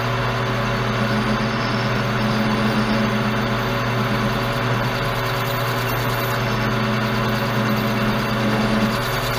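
Metal lathe running steadily while a parting tool cuts off a 1-inch round bar, a constant motor hum with the sound of the cut over it.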